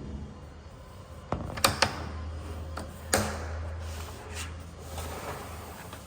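A few sharp knocks and clicks, like a window or screen frame being handled: two close together about a second and a half in, and a louder one about three seconds in. A low steady hum sits underneath in the middle.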